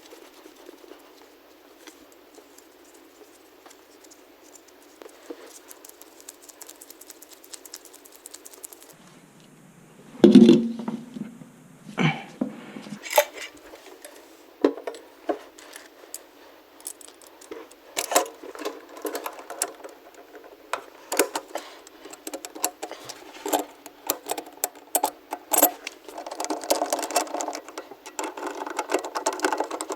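Irregular clicks, clinks and knocks from hands working with tools or parts, with a louder knock about ten seconds in and busier clattering over the last third.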